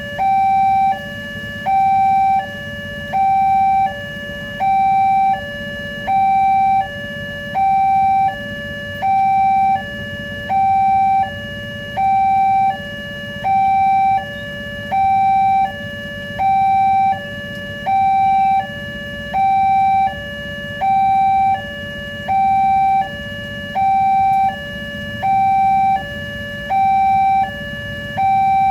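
Indonesian railway level-crossing warning alarm: an electronic two-tone signal alternating between a higher and a lower note, each held about a second, repeating steadily while the crossing is closed for an approaching train. A low steady rumble runs underneath.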